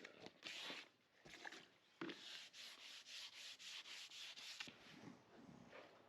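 Faint hand wet-sanding of a painted motorcycle headcowl with 1000-grit sandpaper: a few separate strokes at first, then a quick run of even back-and-forth strokes, about four or five a second, easing to a softer rub near the end.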